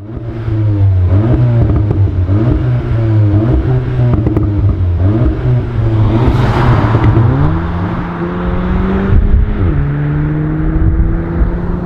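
A car's turbocharged four-cylinder engine, the ABT-tuned CUPRA Ateca's, revving hard, its pitch climbing and dropping back several times, then holding a steadier, higher note for the last few seconds.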